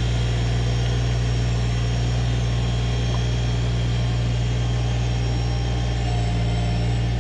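Workmaster 25S compact tractor's three-cylinder diesel engine running steadily at a constant speed, a low, even hum.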